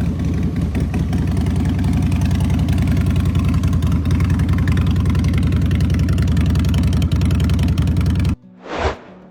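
Motorcycle engine running with a rapid, steady exhaust beat, cutting off suddenly about a second before the end, followed by a brief swish.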